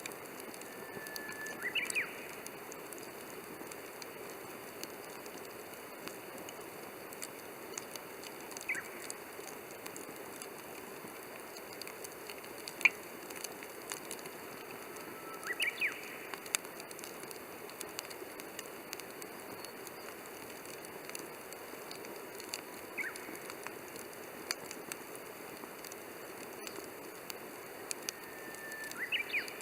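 Wood fire crackling steadily, with scattered sharp pops, the loudest about halfway through.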